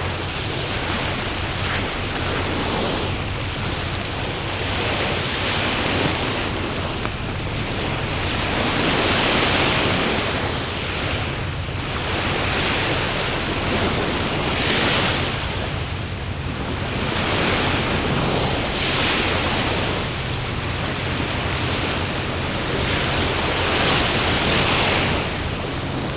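Outdoor bonfire burning in a Coleman Fire Disc, with a few faint crackles over a steady rushing noise that swells and fades every few seconds. A thin, steady high tone runs underneath.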